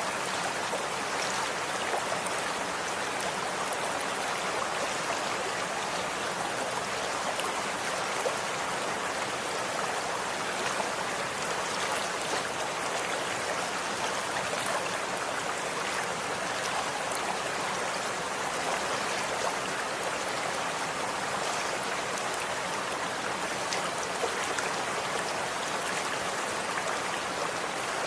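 Running water flowing steadily, like a stream, with a scatter of small splashing ticks through the even rush.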